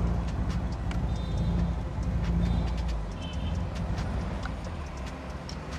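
Nissan Silvia S14's engine running low and steady as the lowered car creeps along, with scattered light clicks; the rumble eases a little about halfway through.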